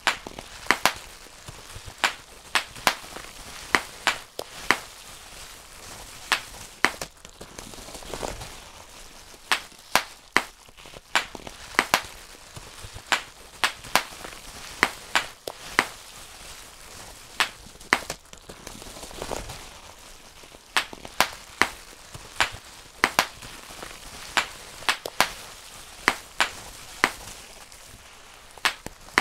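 Bubble wrap being popped by hand, one bubble at a time: sharp single pops at an uneven pace, about one or two a second, with the plastic sheet rustling in between.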